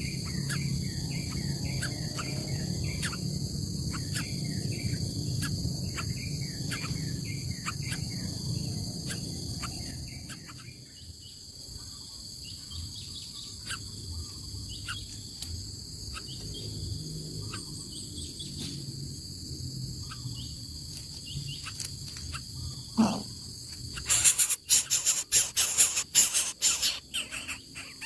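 Steady insect chirring with many short bird chirps over it. A low rumble fades out about ten seconds in, and near the end there is a loud burst of crackling clicks.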